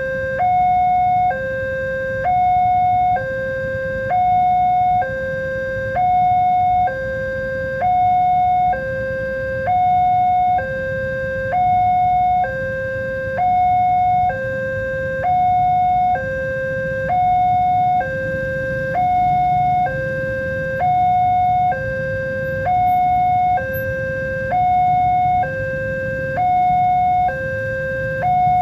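Railway level-crossing warning alarm sounding a two-tone electronic signal, a lower and a higher tone alternating about once a second, the warning that a train is approaching and the crossing gates are closing.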